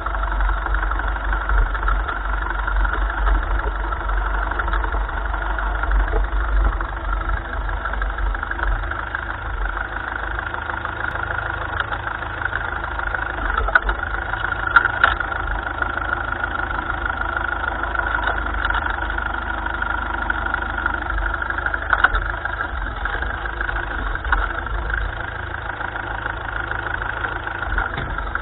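1955 Ferguson tractor's engine running steadily, with a few sharp knocks about halfway through and again later.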